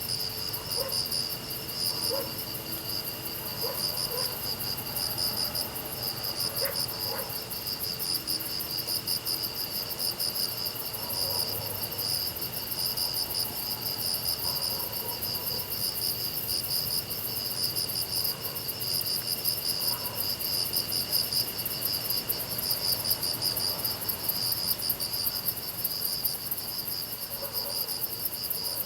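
Grass insects, crickets among them, chirring in several overlapping songs: a fast pulsing high trill, a higher shimmering buzz and one steady thin tone. A few faint short calls sound lower down now and then.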